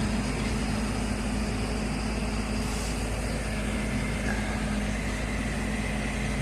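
Heavy vehicle engine running steadily at idle, a constant low hum with no sharp events.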